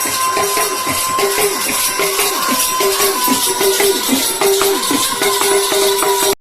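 Bundeli devotional folk music with dense jingling percussion, like a tambourine or hand cymbals, over a held tone and repeated short notes. It stops abruptly near the end.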